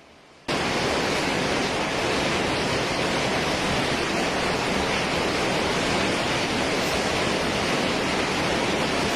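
Floodwater rushing, a loud, steady, unbroken rush of water noise that starts abruptly about half a second in.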